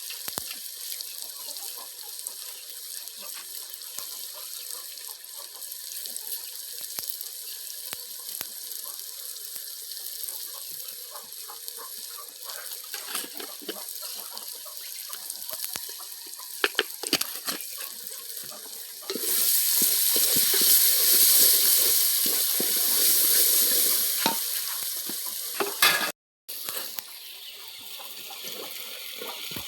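Food sizzling as it cooks, a steady hiss with scattered light clicks and knocks of stirring. About two-thirds of the way through a louder hissing rush lasts several seconds. The sound then drops out for a moment before the softer sizzle comes back.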